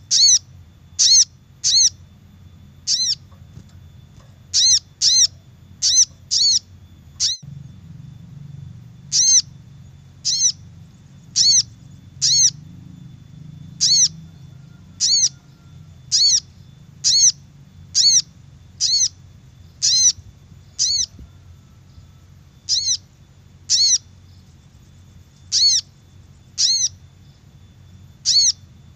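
Little spiderhunter (sogok ontong) calling: short, sharp, high notes repeated about once a second, with a few longer pauses between runs, played as a bird-luring call recording.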